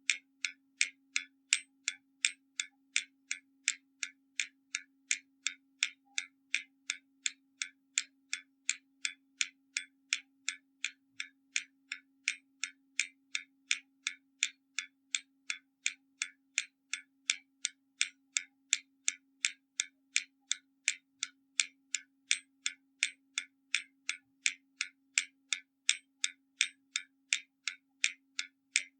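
Hermle German mechanical skeleton clock ticking steadily, at about two and a half crisp ticks a second.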